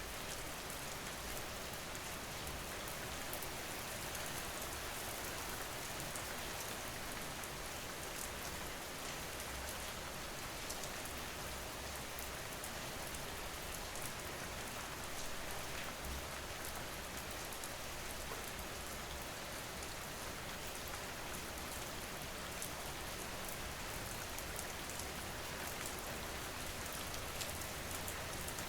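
Steady rain falling on a surface, with scattered small drop ticks, as an ambient sleep-sound track.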